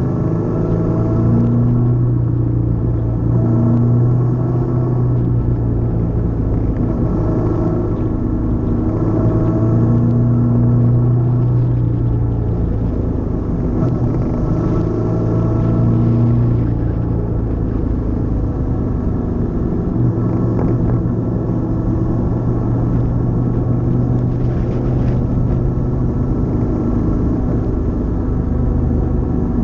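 Honda CTX700's 670 cc parallel-twin engine running under way, heard from an onboard camera alongside low wind and road rumble. The engine note rises and falls a few times through the bends.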